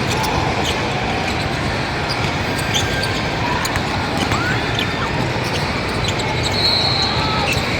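Youth basketball game in a gym: a ball bouncing on the hardwood, sneakers squeaking and a steady hall-wide crowd noise, with a short high whistle blast about three-quarters of the way through.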